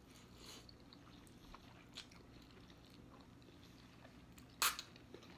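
Faint chewing and small eating sounds of ramen noodles being eaten with forks, with a few small ticks and one short, louder burst of noise about four and a half seconds in.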